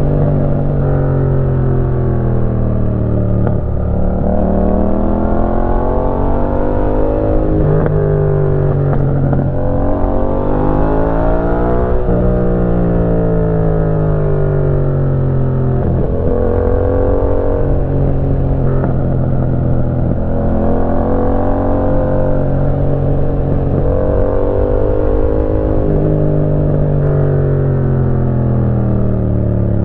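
2018 Yamaha MT-07's parallel-twin engine through a Roadsitalia titanium aftermarket exhaust, heard while riding: the engine note climbs and drops again and again as the rider opens and closes the throttle through a run of bends.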